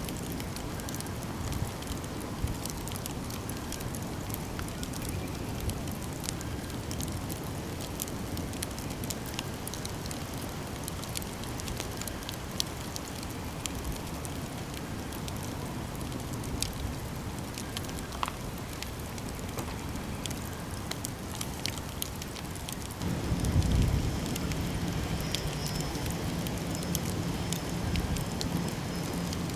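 Campfire burning, with steady crackling and many sharp snaps and pops. About 23 seconds in, a louder low rumble comes in under the crackle.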